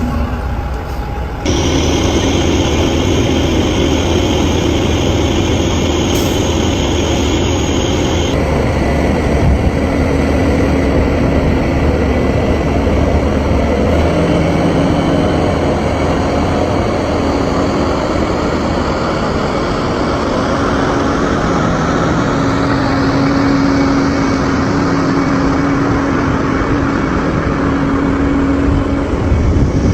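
Heavy truck engine running steadily with a low rumble; the sound changes abruptly about a second and a half in and again around eight seconds.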